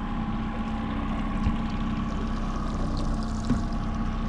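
Boat motor running steadily, a constant hum of several tones over a wash of water and wind noise.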